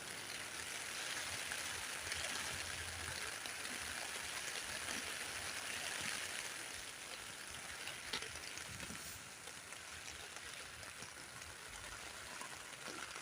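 Rain falling on a tent, a steady hiss of drops with scattered small taps, heard from inside.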